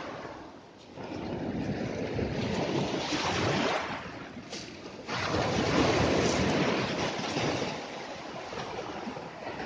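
Sea waves breaking and washing onto the shore in two surges: one swells about a second in and a larger one about five seconds in, each building and then fading away.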